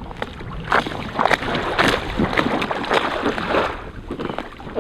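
Water splashing and sloshing around an inflatable kayak in irregular bursts.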